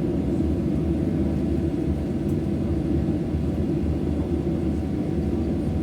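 Steady low rumble inside a Boeing 737-800 passenger cabin, with no change in pitch or level.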